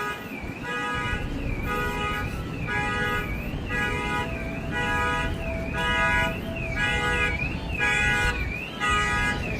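A repeating electronic warbling tone, like an alarm or an electronic toy, pulsing a little more than once a second with a dipping glide in each pulse, over a steady low background rumble.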